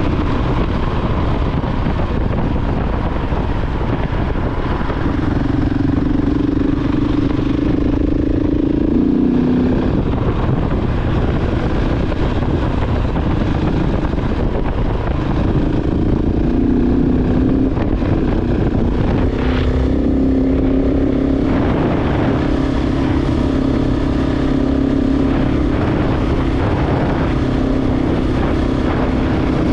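KTM 690 Enduro R's single-cylinder engine running under way, with heavy wind and road rumble. The engine note steps up and down several times as the throttle and gears change.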